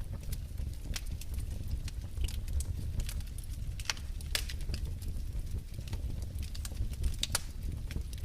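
Wood fire crackling in a fireplace: a steady low rumble of burning with sharp, irregular pops and snaps from the logs.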